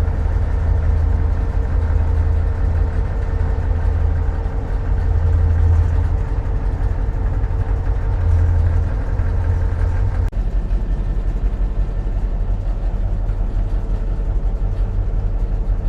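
GP38-2 diesel locomotive's EMD 16-cylinder two-stroke engine running, heard from inside the cab as a steady, loud low drone. About ten seconds in, the sound changes abruptly and a steady mid-pitched whine drops out.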